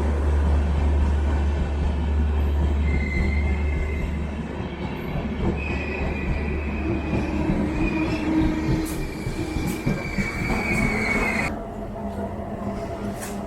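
Passenger train rolling along a station platform with a low rumble, its wheels squealing in high steady tones for several seconds; the squeal cuts off suddenly near the end.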